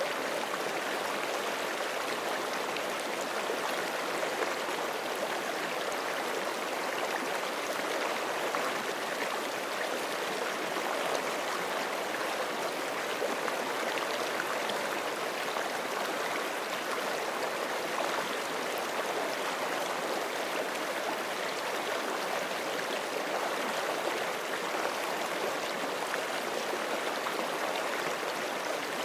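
Forest creek flowing steadily over rocks, an even rushing and gurgling of running water.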